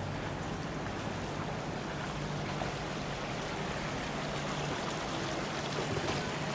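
Steady rush of running water from a park water feature, with a faint low hum underneath.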